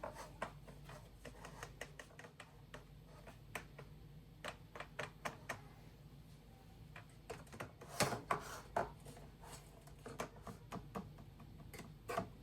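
A run of irregular light clicks and taps, hard small objects being handled, with a cluster of louder knocks about eight seconds in.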